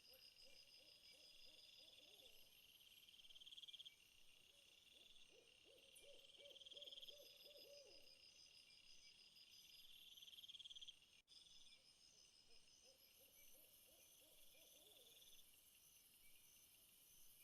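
Faint night chorus of insects such as crickets, several overlapping high pulsed trills, with a lower pulsed call coming in spells of two to three seconds.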